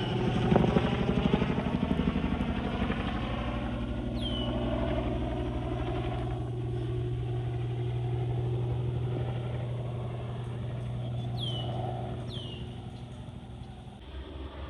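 Aircraft engine drone of a plane or helicopter passing, a steady hum that fades near the end. A few short, falling chirps, like a small bird's, sound over it.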